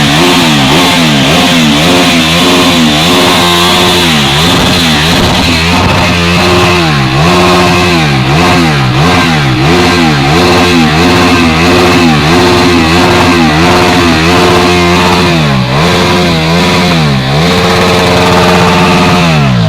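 Loud KTM RC single-cylinder motorcycle engine revved hard and held at high revs, its pitch dipping and climbing back about once a second as the throttle is worked. Near the end the revs fall away steeply.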